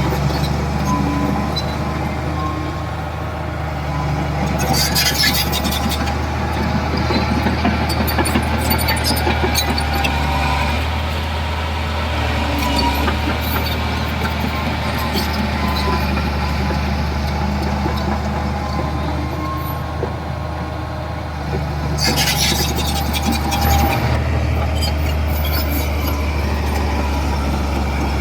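Komatsu D31P bulldozer's diesel engine running steadily under work, with two louder spells of clanking and rattling about 5 and 22 seconds in.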